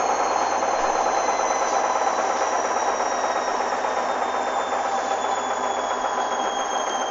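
Hoover DYN 8144 D washing machine spinning: steady drum and motor noise with a high motor whine that slowly falls in pitch as the drum slows.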